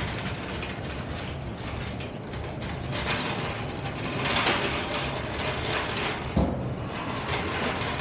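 Mechanical ratcheting and clanking, with a sharp knock about six seconds in.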